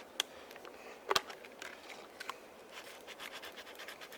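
Crackling and sharp clicks of a plastic bottle being handled and worked on with a knife, with two louder snaps near the start and about a second in.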